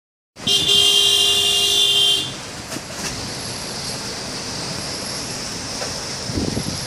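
A horn sounds once, a steady note held for almost two seconds. After it cuts off, a steady high hiss of wind carries on.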